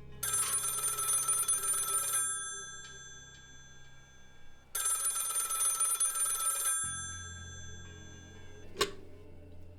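Telephone bell ringing twice, each ring about two seconds long with a pause between, followed by a single sharp click near the end.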